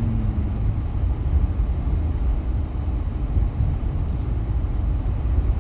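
Steady low rumble of a pickup truck driving, engine and road noise heard from inside the cab.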